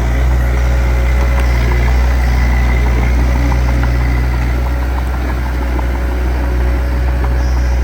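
Diesel engine of heavy earthmoving equipment running at a steady, even speed, a deep drone with faint light clicks over it.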